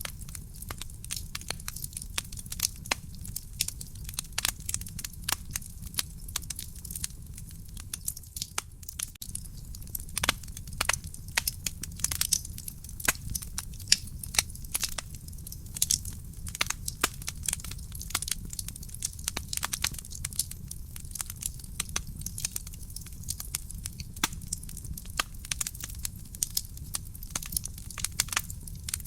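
Real wood fire burning in a fireplace, crackling with dense, irregular sharp pops and snaps over a low steady rumble.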